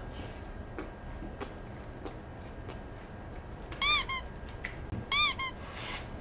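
Faint crunching of fried shrimp being chewed, broken about halfway through by two loud, short, high squeaks a little over a second apart. Each squeak rises and falls in pitch and is followed by a quick shorter one.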